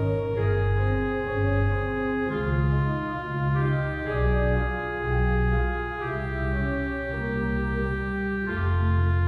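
Organ music: slow held chords over a moving bass line, the notes changing every half second to a second.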